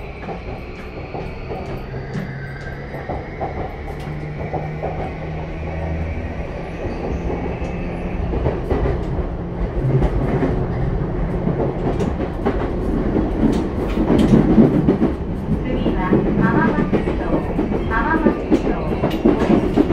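Running sound inside a JR East E235-series motor car. The Mitsubishi full-SiC VVVF inverter and traction motors whine in faint, slowly rising tones as the train gathers speed, under wheel-on-rail rumble that grows steadily louder.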